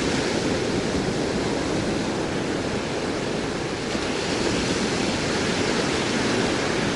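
Surf breaking on a sandy beach: a steady, even wash of noise with no single wave standing out.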